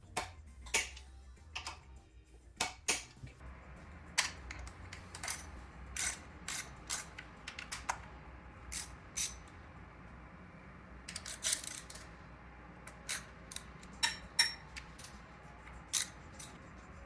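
Irregular sharp metallic clicks and clinks, one or two a second, from hand tools and parts being handled while a motorcycle is worked on, over a low steady hum.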